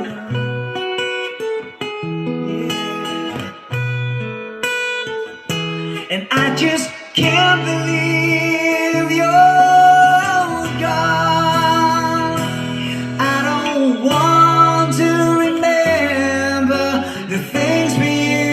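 Live band playing an instrumental break of a rock ballad: picked guitar notes over bass, filling out about seven seconds in as a lead melody line with bent notes comes in over the chords.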